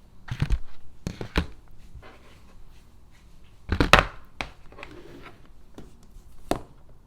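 Several irregular knocks and taps of food and containers being handled on a kitchen counter, the loudest about four seconds in.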